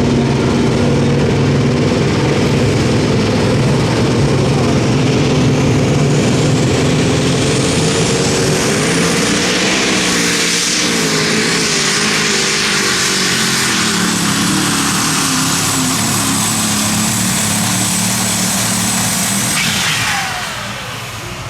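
Unlimited super stock pulling tractor's turbocharged diesel engine running flat out down the track, with a high turbo whistle that rises and then holds. Near the end the engine throttles back, the whistle drops away and the sound falls off.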